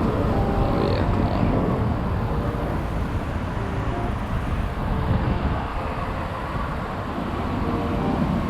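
Steady outdoor rumble and hiss with no clear single source, and a brief high chirp about a second in.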